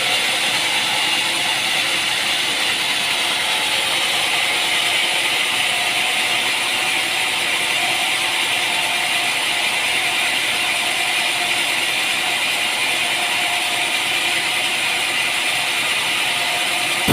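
Sawmill machinery running steadily: an even, unbroken mechanical noise with a faint steady hum under it.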